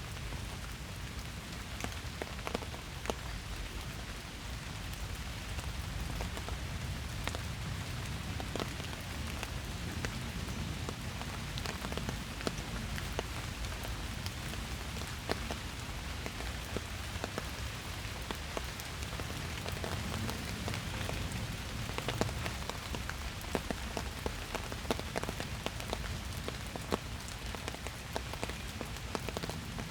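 Steady rain falling in a forest, a constant hiss with many separate drops tapping sharply throughout.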